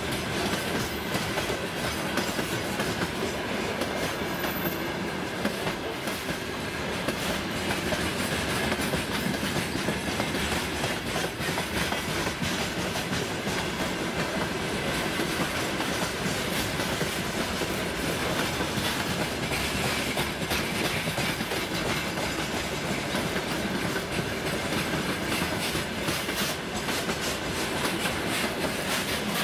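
Freight train of open gondola wagons rolling past, wheels clattering steadily over rail joints with a continuous rumble of running gear.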